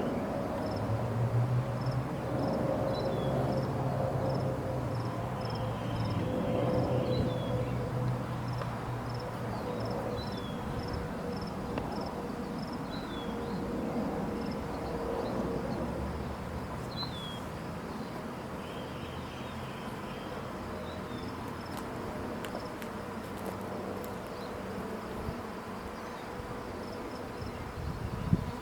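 A swarm of honeybees buzzing in the air, a steady drone.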